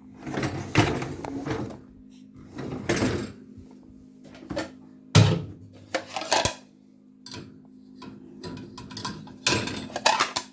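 Dishes and glasses clattering and clinking as they are set into a dishwasher's racks, in irregular bursts with the loudest knock about five seconds in.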